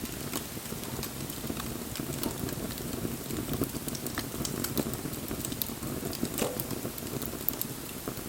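Bonfire burning, with a steady low rush of flame and irregular crackles and sharper pops from the burning wood.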